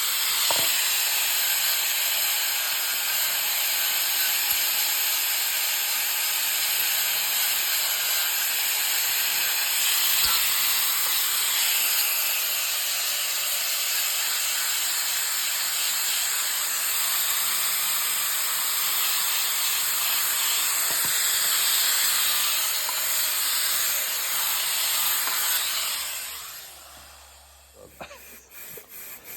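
A steady, loud hiss like escaping air or spray, running without a break and dying away about 26 seconds in.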